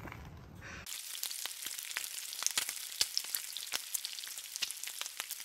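Food frying, a dense crackle of sizzling pops over a hiss, which cuts in abruptly about a second in.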